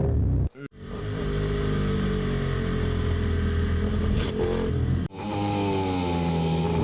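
MotoGP racing motorcycle engine running, its pitch drifting slightly up and down. The sound cuts off sharply and changes about half a second in and again about five seconds in, as the footage is spliced.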